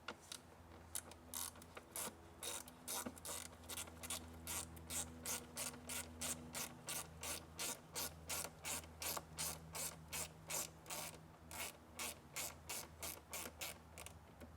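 Hand ratchet clicking in a steady rhythm, about two to three clicks a second, as a fastener is turned by hand.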